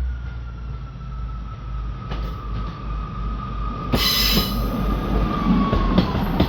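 ScotRail Class 158 diesel multiple unit approaching on a curve: a low diesel rumble under a long wheel squeal whose pitch slides slowly down. About four seconds in a loud hiss joins, followed by a few sharp clicks.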